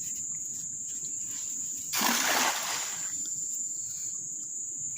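A weighted fishing net thrown into a river lands with one splash about two seconds in, then the water settles. Crickets chirr steadily throughout.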